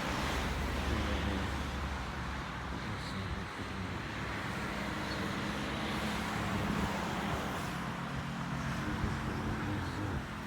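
Road traffic: cars passing by. A steady rush of tyre and engine noise swells and fades as vehicles go past, with a low engine hum strongest around the middle.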